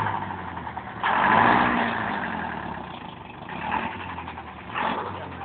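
DTC 640 forestry tractor's engine running, revving up sharply about a second in, then easing back down.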